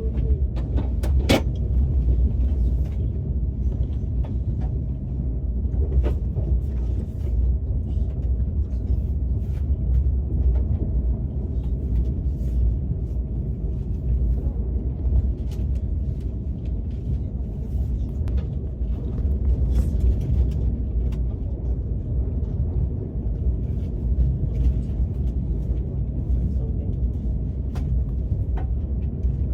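Steady low rumble of a KTX high-speed train's passenger cabin while the train is running, with a few light clicks scattered through it.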